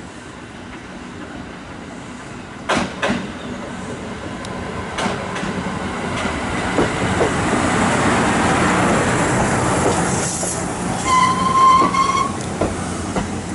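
Kintetsu electric train pulling in along the platform: a pair of wheel clacks over a rail joint about three seconds in, then running noise that builds as the cars pass close. Near the end comes a brief high-pitched tone.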